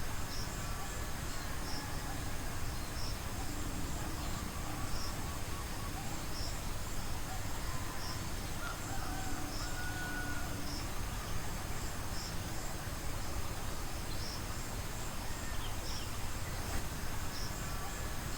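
Forest ambience: insects keep up a steady high buzz, with a short high chirp repeating about every second and a half. A few faint whistled bird notes come near the middle, over a steady low rumble.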